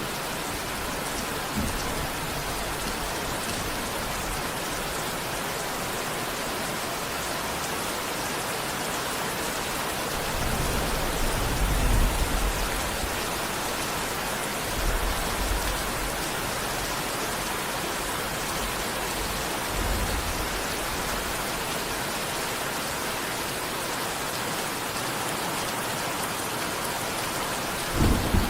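Steady rain, with low rolls of thunder: the longest about ten seconds in, shorter ones later and another right at the end.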